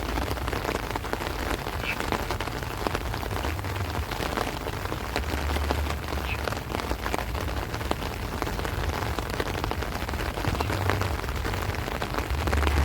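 Heavy rain pouring steadily on rice plants and trees, a dense patter of countless drops. Strong wind adds low rumbles that swell now and then, most clearly about five seconds in and near the end.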